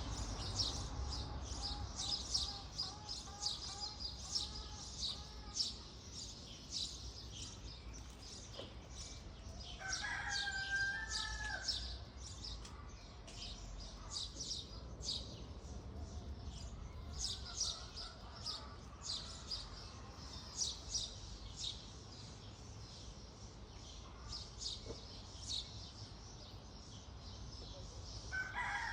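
Small birds chirping rapidly and continuously, with a rooster crowing about a third of the way in and again at the very end.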